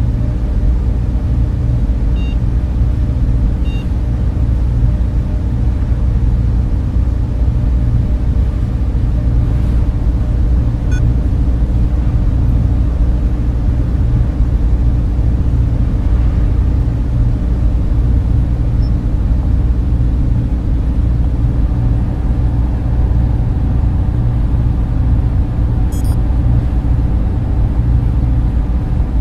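Server room cooling fans running steadily: a dense, low, even whir with a few faint steady tones riding on top.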